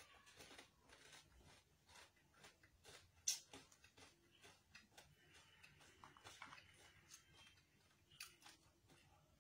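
Faint crunchy chewing of crispy fried chicken skin: a run of small crackles, with one sharper crunch a little over three seconds in.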